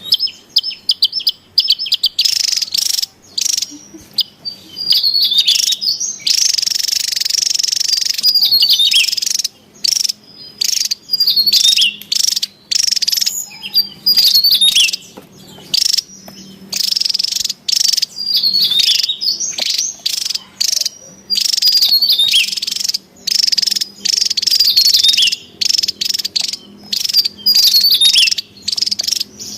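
Javan tesia singing agitatedly: rapid phrases of high, chattering, zigzagging notes come one after another with short gaps, with a buzzier, scratchier stretch partway through.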